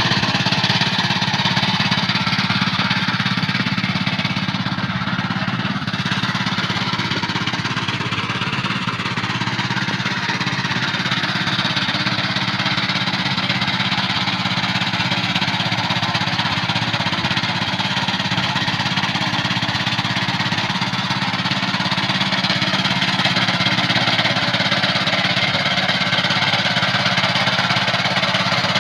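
Rice-field tractor engine running steadily under load, with a constant engine drone and a dense mechanical clatter.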